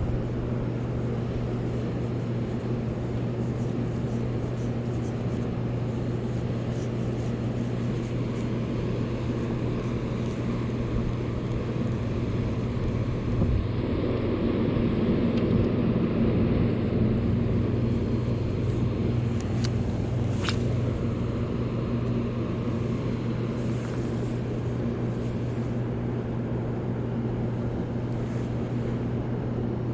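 A steady low motor hum, with a wash of noise over it that swells a little around the middle and a single sharp click about twenty seconds in.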